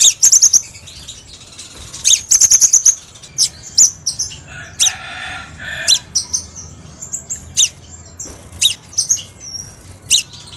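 Crimson sunbird (kolibri sepah raja) calling: a series of sharp, high-pitched chips and short rapid trills, with a lower, buzzier note about five seconds in.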